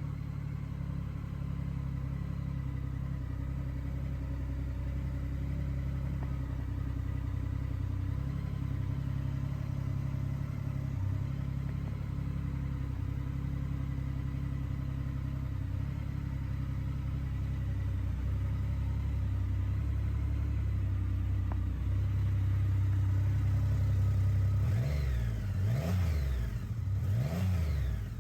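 Triumph Rocket 3 GT's 2.5-litre inline three-cylinder engine idling steadily, then revved up and back down twice in quick succession near the end.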